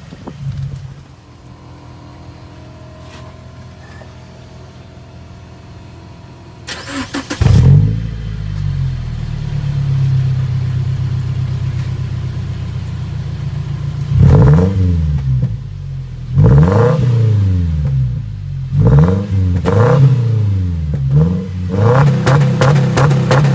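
2013 Subaru Impreza's 2.0-litre flat-four running with its muffler removed. The engine starts about seven seconds in and idles. From about halfway through it is revved in a series of quick blips, each rising and falling in pitch.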